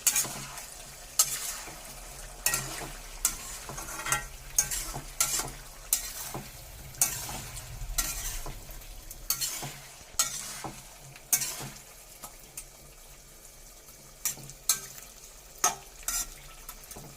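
Chicken pieces frying in hot coconut oil in a pan, sizzling steadily, while a spoon stirs them, scraping and knocking against the pan every second or so.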